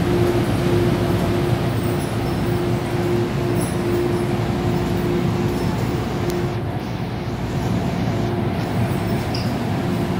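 MTR M-Train electric multiple unit running, heard from inside the car: a steady rumble of wheels and rails with a constant hum.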